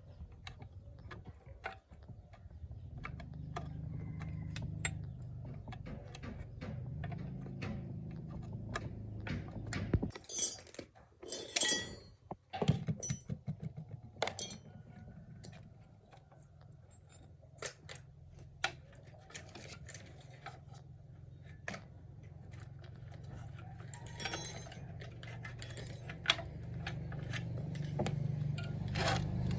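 Metal parts and tools clinking and knocking as they are handled, with a louder burst of clatter about a third of the way in, over a steady low hum.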